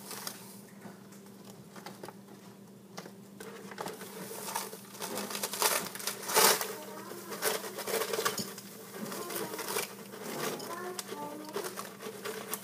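A spoon and sugar container being handled while sugar is spooned into a mug: a run of small clicks, taps and scrapes, with one louder knock about six and a half seconds in.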